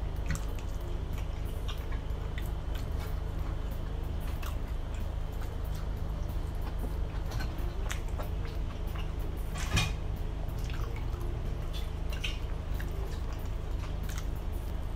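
Close-miked chewing of fries, with wet mouth clicks and lip smacks over a steady low hum; one sharper smack a little under ten seconds in.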